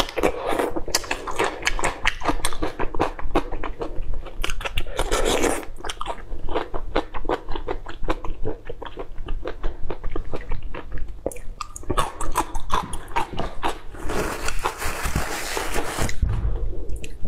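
Close-miked eating sounds: rapid biting, chewing and crunching of food in the mouth, with a spell of even, hiss-like rustling late on.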